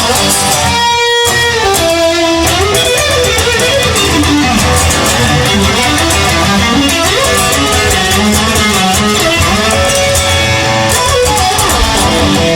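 Instrumental break in a blues song: an electric guitar plays a lead with bent notes over a full band.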